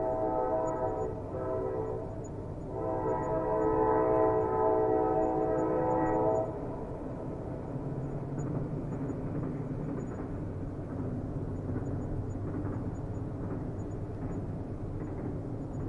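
Train horn sounding twice: a first blast ending about 2 seconds in, then a longer, louder one that cuts off sharply about 6 seconds in. It is followed by the steady rumble of the train running on the rails.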